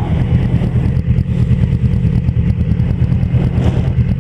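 Yamaha YZF-R6's 600cc inline-four engine running at a steady pace through its stock exhaust while being ridden.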